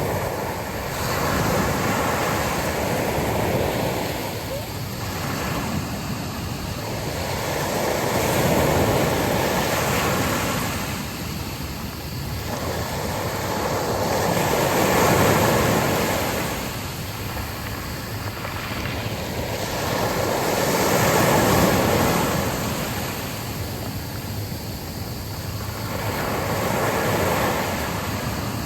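Sea waves breaking and washing up a beach, the surf swelling and fading about every six seconds, with wind underneath.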